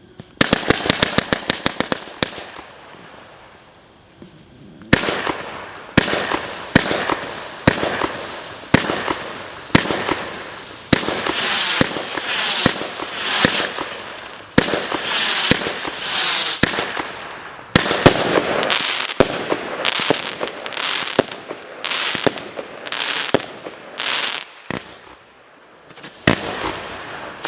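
Carnival Fireworks 'Undead Dancer' 56-shot barrage cake firing: a quick volley of shots, a lull of about three seconds, then steady shots about two a second, each followed by the hiss of its burst, with a short break near the end.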